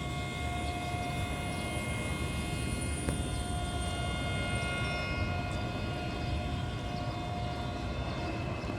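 General Electric diesel-electric locomotive running steadily: a constant low engine rumble with several steady high whining tones over it.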